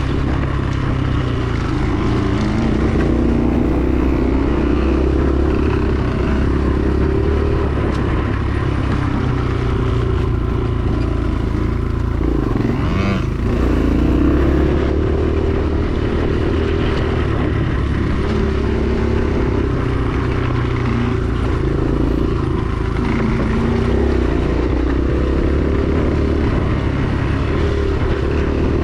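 Dirt bike engine being ridden, its pitch rising and falling over and over with the throttle, with a short drop and climb about twelve seconds in.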